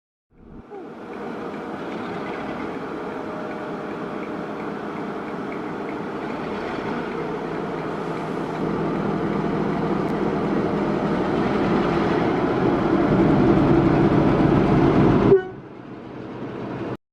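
A train running on a heritage railway, growing steadily louder for about fifteen seconds, then dropping away suddenly to a quieter level before cutting off.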